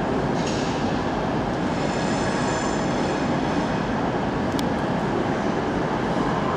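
Passenger multiple-unit train running slowly through a station, a steady rumble of wheels and motors, with a faint high wheel squeal a couple of seconds in.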